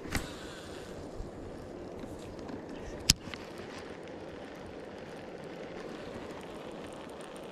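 Two sharp knocks, a light one just after the start and a louder one about three seconds in, over a steady rushing background noise.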